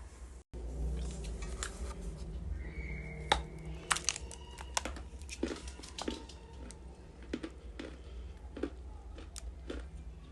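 Crunching of dry edible clay pieces: a run of sharp, irregular snaps and crackles over a steady low hum, with a brief gap about half a second in.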